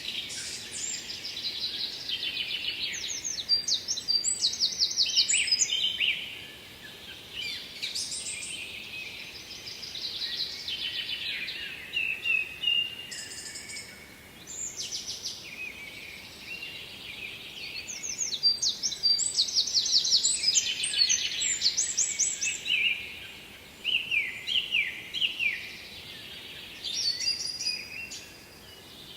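Songbirds singing: repeated phrases of quick trilled and chirped notes, each a few seconds long, with short pauses between them, over a faint steady background hiss.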